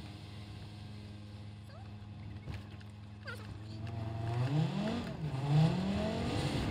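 Car engine heard from inside the cabin, idling steadily, then rising and falling in pitch twice as the car pulls away and picks up speed. A couple of sharp clicks come just before it pulls away.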